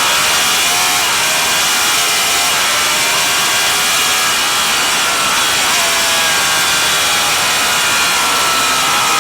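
Vintage racing motorcycle engine running hard under a steady rushing noise, its pitch falling about a second in and again around five seconds in, then climbing each time as it revs back up.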